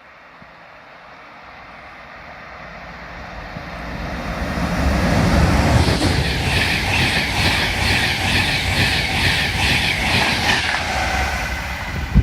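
A train approaching and passing through the station at speed without stopping, growing louder over about five seconds, then a sustained rush of noise with a rhythmic clatter of wheels on the track.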